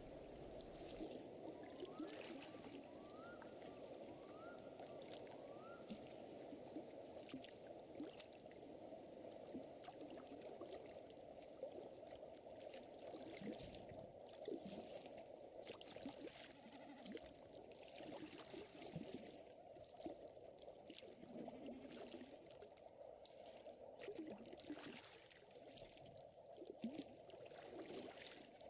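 Faint fire crackling with scattered small pops over a soft steady watery murmur, as in a nature ambience mix; four short rising calls in the first few seconds.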